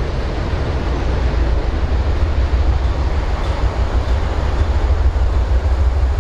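Freight train rumbling away down the track just after its last car has passed, a steady rumble heavy in the low end.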